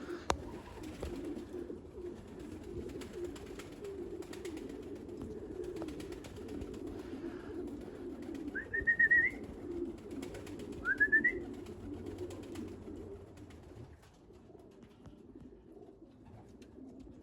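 Racing pigeons cooing steadily and low, with two short rising high chirps a couple of seconds apart partway through; the cooing drops away near the end.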